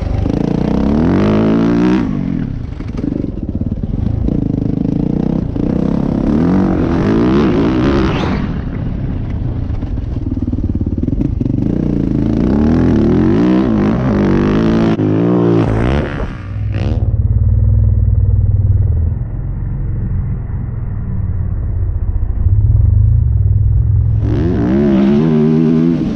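Yamaha YZ450F single-cylinder four-stroke dirt bike engine, revving up and dropping back again and again as it is ridden hard, with some clatter. For several seconds about two-thirds of the way in the sound turns to a muffled low rumble, then the sharp revving comes back near the end.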